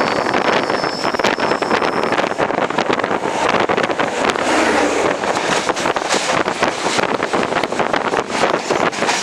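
Running noise of an express train moving at speed: a dense rattle and clatter from the wheels and coaches, with wind buffeting the microphone. A thin high whine stops about two seconds in.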